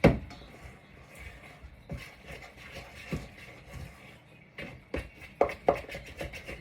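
Kitchen handling sounds while batter is mixed: a sharp knock at the start, then scattered taps and clinks of a utensil and bowl, with a cluster of taps about two-thirds of the way through.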